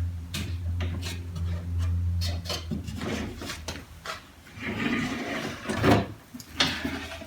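Wooden drawers and parts of a old chest of drawers being handled: a string of knocks and clicks, with wood rubbing and scraping in the second half. A low steady hum runs underneath and stops about two and a half seconds in.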